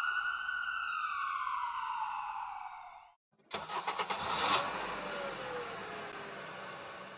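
A single ambulance siren wail that falls in pitch and stops about three seconds in. After a brief pause, a vehicle engine starts with a rough burst and keeps running, fading toward the end.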